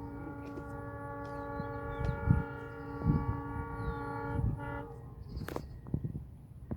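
Locomotive horn of the Agartala Tejas Rajdhani Express sounding one long steady blast that stops about five seconds in, over the low rumble of the train with a few thuds.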